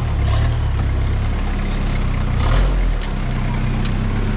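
Turbo diesel engine of a rock-crawling Toyota Hilux running steadily at low revs while crawling over rocks, with a brief louder noise about two and a half seconds in.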